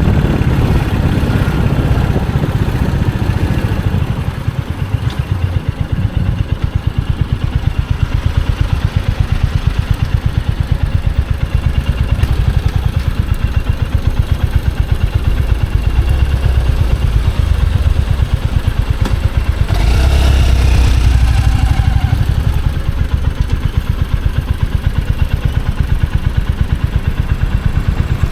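Royal Enfield Hunter 350's single-cylinder engine and exhaust running steadily while riding through the city, a continuous low thumping pulse. The engine eases off and gets quieter a few seconds in, then pulls harder again. A brief rush of noise comes about two-thirds of the way through.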